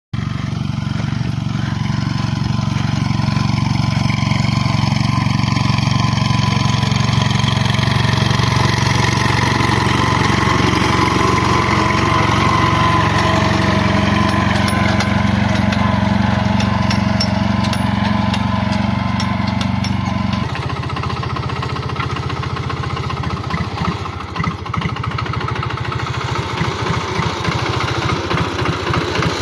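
Captain tractor's engine running steadily. About twenty seconds in, it drops to a lower, chugging beat like an idle.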